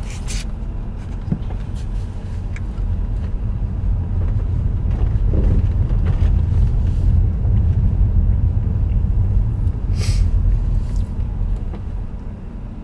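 Low rumble of road and tyre noise heard inside a moving car's cabin, swelling louder through the middle and easing off near the end.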